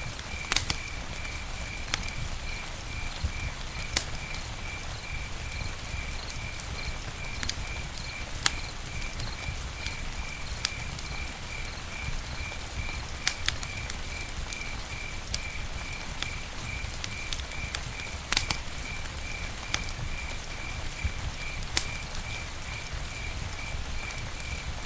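Campfire burning with a low rumble and irregular sharp crackles and pops, over an insect chirping evenly about two or three times a second.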